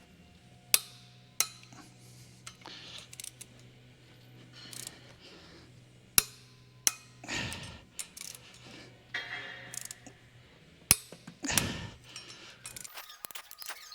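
Click-type torque wrench tightening flex plate bolts, giving sharp metallic clicks in pairs as each bolt reaches its set torque, with clanks and shuffling of the tools between bolts over a steady low hum.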